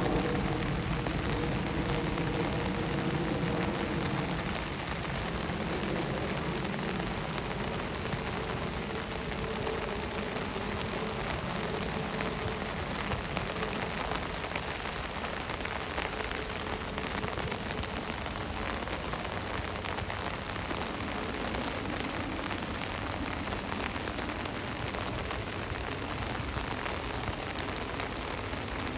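Rain hitting a vehicle's front window, heard from inside as a steady hiss with the ticking of single drops. Under it runs a low engine drone that is strongest for the first few seconds and then fades.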